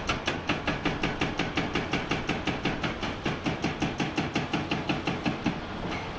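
Hydraulic breaker hammer on a Komatsu PC490 excavator pounding rock, a rapid even rhythm of about six blows a second that weakens near the end.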